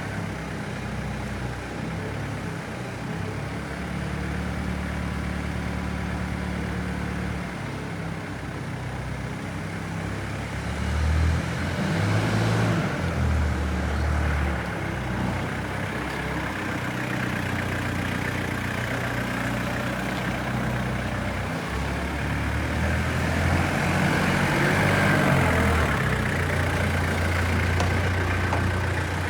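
Heden FD30T diesel forklift engine running, picking up revs about eleven seconds in and again for a few seconds near the end.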